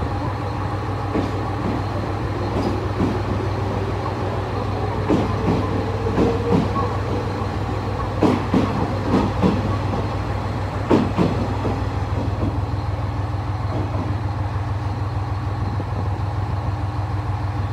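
JR West 381 series limited express in Super Yakumo livery running past and drawing away from the platform, over a steady low hum. A tone rises in pitch a few seconds in, and the wheels clack over the rail joints in quick clusters through the middle.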